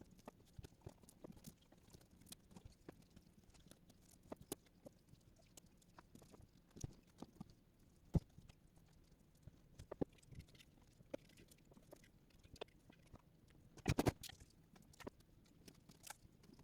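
Faint, scattered clicks and taps of hands and tools working a thick second coat of rigidizer into the furnace's ceramic wool lining, with a short cluster of louder knocks about 14 seconds in.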